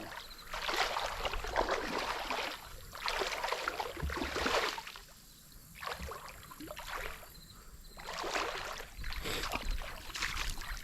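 River water sloshing and swishing in irregular swells, each about a second long.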